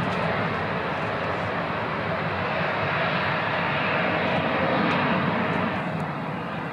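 Boeing 787 jet engines at takeoff thrust, a loud steady rush with a faint hum in it, easing slightly near the end.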